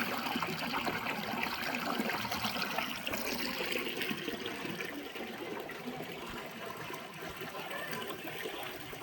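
Running water splashing and trickling, loudest at first and slowly growing quieter.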